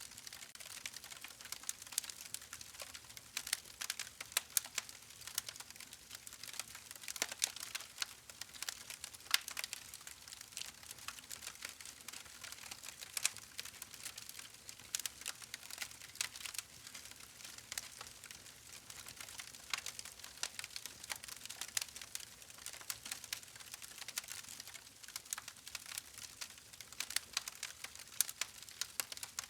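Campfire crackling: burning wood giving a dense, irregular stream of small sharp pops and snaps over a faint hiss.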